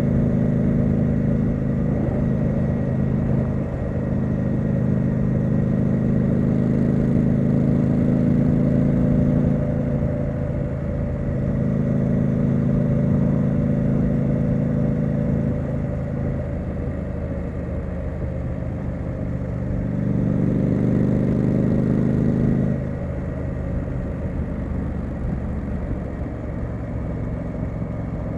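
Triumph Street Scrambler's 900 cc parallel-twin engine and exhaust under way, easing off and pulling again several times as the throttle is rolled on and off.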